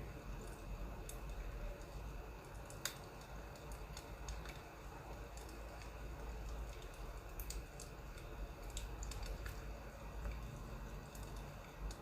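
Wood fire crackling: irregular sharp pops and snaps, one louder pop about three seconds in, over a steady low rumble.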